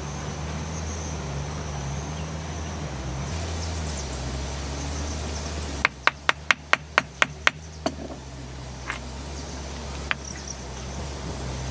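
A quick run of about eight sharp knocks, roughly five a second, about halfway through, then a couple of single knocks, over a steady low background hum with faint steady high tones.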